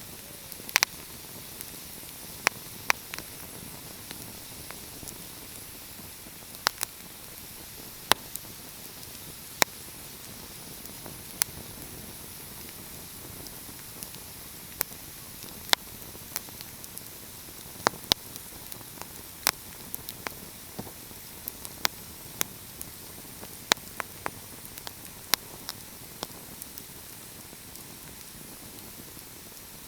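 Fire crackling: irregular sharp pops and snaps, often several in a second and sometimes a gap of a second or two, over a steady soft hiss.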